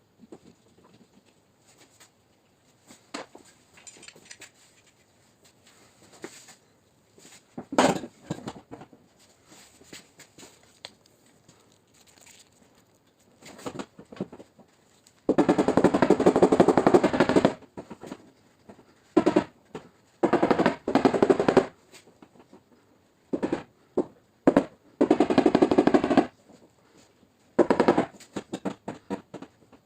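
Rapid strings of tapping on a car's sheet-metal trunk lid during paintless dent repair, each burst lasting a second or two, with a few single taps before the bursts begin: the tapping-down of the dent's high spots.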